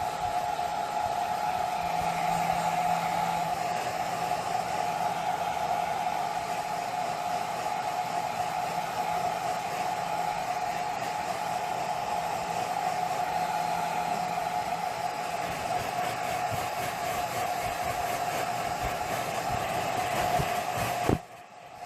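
Hand-held hair dryer blowing steadily, a continuous whirring hiss, drying a kitten's fur after a shampoo; it cuts out briefly near the end.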